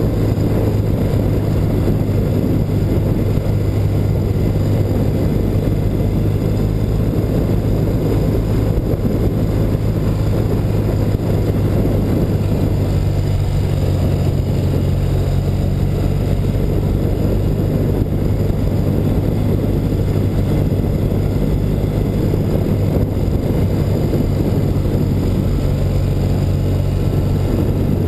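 BMW R100RS air-cooled boxer-twin motorcycle engine running at a steady pace under way, with a low rush of wind and road noise beneath it. The engine note shifts slightly about halfway through.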